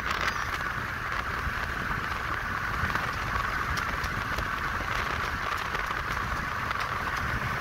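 Steady rushing rumble of a moving freight train of tank cars and covered hopper cars, heard from a car beside the track, with a few faint clicks.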